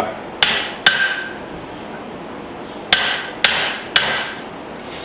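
Five hand-hammer blows on hot spring steel on an anvil while forging a hatchet head: two quick strikes, a pause, then three more, some leaving a short metallic ring.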